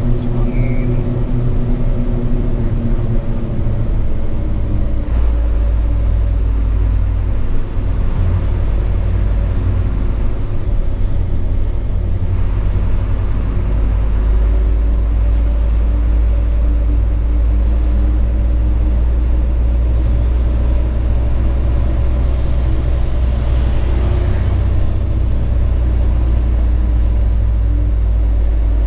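Diesel engine of a Hino 500 FM 260 JD ten-wheel truck running under way, heard from inside the cab with the low road rumble. Its pitch shifts in the first few seconds, then holds steady.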